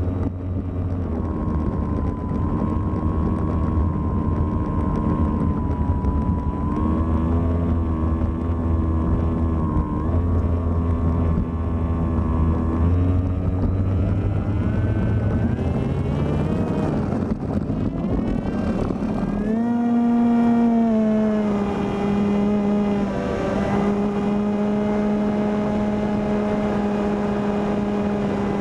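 Electric motor and propeller of a Volantex Ranger EX RC plane running in flight, with some wind noise. The pitch wavers with throttle, rises over a few seconds past the middle, then holds a steadier, higher tone for the last third.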